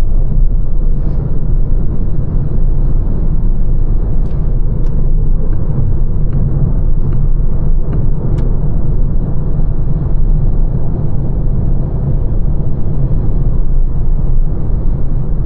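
Lancia Ypsilon hatchback on the move: a steady low rumble of road and tyre noise, with a few faint light clicks in the middle.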